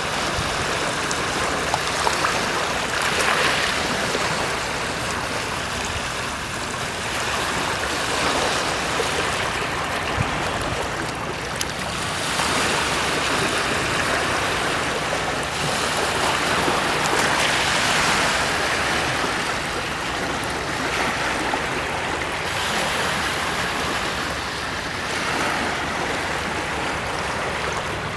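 Sea surf washing in, a continuous rush of water that swells and eases every several seconds as waves break.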